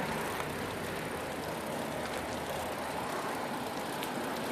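Steady road and wind noise, with no separate events standing out.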